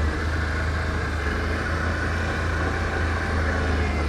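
Can-Am ATV engine running steadily as it rides along a trail: a constant low drone under a steady rush of riding noise.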